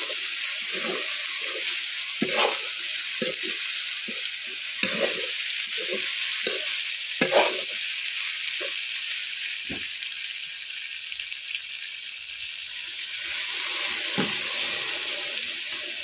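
Broiler chicken pieces sizzling in a kadai, with a metal spatula scraping and turning them in frequent short strokes. The stirring thins out after about ten seconds while the steady sizzle goes on.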